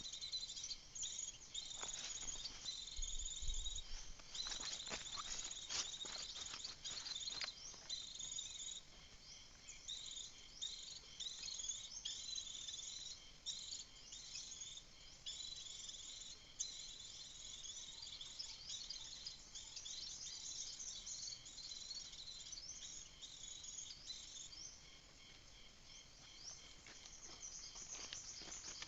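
Small birds chirping: irregular, high, thin chirps and short trills that run on and off, with a few faint clicks in the first several seconds.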